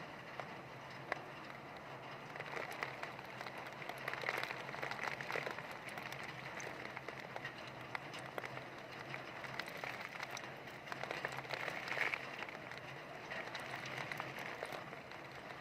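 Heavy rain falling steadily, a dense hiss of drops with fine ticks of individual drops hitting surfaces, swelling louder twice as strong wind gusts through it.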